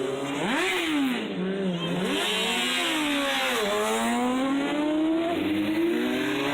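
Motorcycle engine revving and accelerating, its pitch climbing and dropping back with each gear change: a quick rev and drop about half a second in, then a long climb after a shift near the middle.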